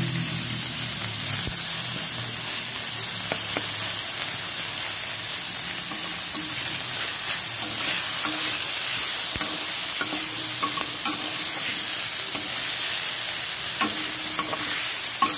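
Potato and star fruit pieces sizzling steadily in hot oil in a metal pan, with a steel spatula scraping and stirring against the pan.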